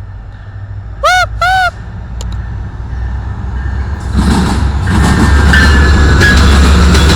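A train approaching and passing close: a low rumble that builds steadily, then from about four seconds in becomes a loud noise of wheels and cars going by, with a faint squeal. About a second in, two short honks, each rising and then falling in pitch, sound over it.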